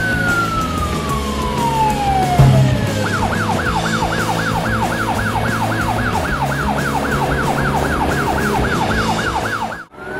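Police car siren sound effect over steady background music. A long falling tone runs for about three seconds, then a fast yelp siren sweeps up and down about three to four times a second and cuts off just before the end. A short low thud comes about two and a half seconds in.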